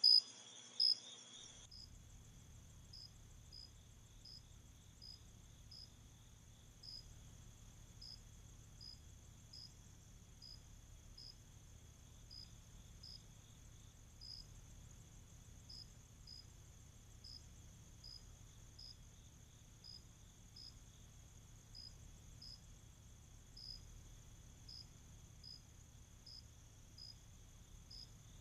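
Night insect chorus: a cricket chirping in short, evenly paced chirps over a steady high insect drone. Loud chirps in the first second or so, then a cut to a fainter stretch with a low hum underneath.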